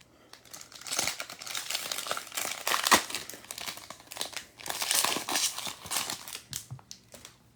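Crinkling and tearing of a trading card pack wrapper as a 2022 Donruss baseball pack is opened and handled, in irregular bursts that are loudest about three and five seconds in.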